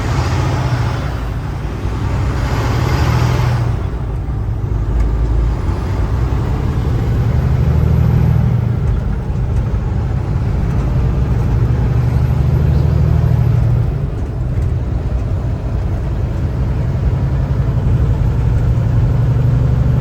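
Cab noise of a Kenworth T680 semi-truck cruising on the highway: a steady low engine and drivetrain rumble with tyre and wind noise. There is a stronger rush of hiss in the first few seconds.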